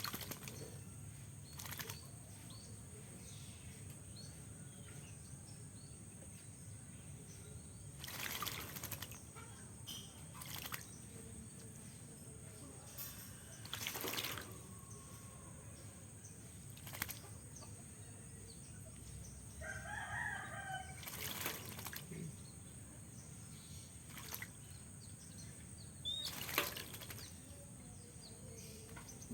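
Oriental magpie-robin bathing in a caged water dish: several short bouts of wing flapping and splashing water a few seconds apart. A rooster crows once in the background about two-thirds of the way through.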